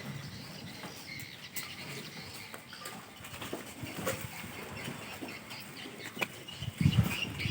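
Animal sounds with scattered sharp clicks and knocks, then a short run of heavy low thumps near the end.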